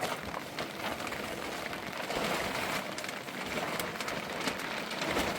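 Steady rain falling on surfaces: a constant hiss with scattered ticks of individual drops.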